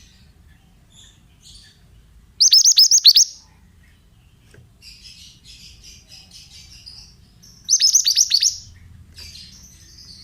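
Mantenan (pied bushchat) singing: two loud bursts of quick, falling whistled notes, about 2.5 seconds and 8 seconds in, with softer scratchy twittering between them and near the end.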